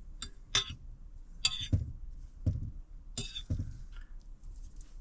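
Cooking utensils and cookware clinking and knocking, about seven sharp clinks and dull knocks, as the roasted asparagus is taken out and moved to the plate.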